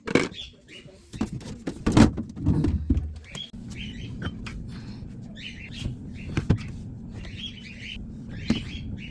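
Several sharp knocks and clatters in the first few seconds, as of containers being handled. Then a steady low hum with short high chirps or squeaks every second or so.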